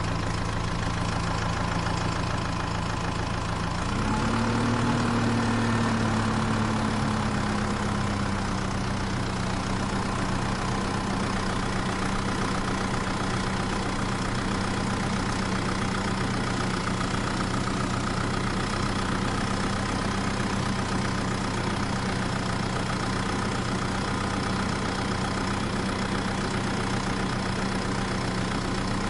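A DIY model tractor's small motor running with a steady hum. About four seconds in it speeds up, then settles back to an even speed.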